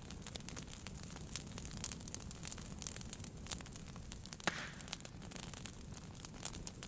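Wood fire crackling in a fireplace: irregular sharp pops and snaps over a low steady rumble, with one louder pop about four and a half seconds in.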